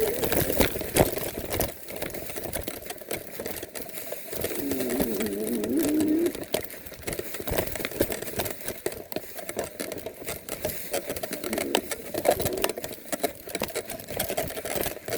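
A 350 W electric bike's hub motor whines under power, its pitch rising and falling about four to six seconds in. Many sharp clicks and knocks from the bike riding over rough, overgrown ground run throughout.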